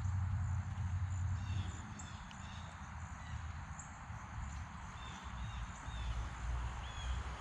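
Birds calling in short, quick chirps, a cluster of them in the first few seconds and more near the end, over a steady low rumble.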